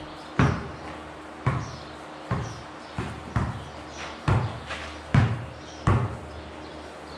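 Basketball bouncing on a hard floor, about eight bounces at roughly one a second, each echoing.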